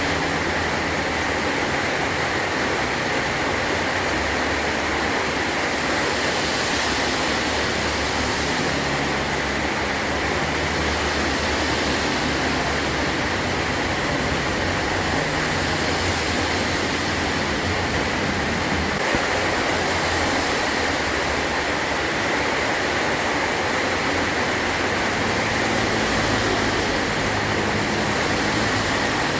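Heavy rain falling steadily on a metal roof, a dense, even hiss with no break.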